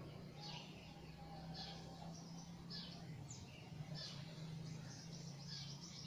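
Songbirds calling back and forth in the foliage: short high chirps, each falling a little in pitch, about one a second, over a steady low hum.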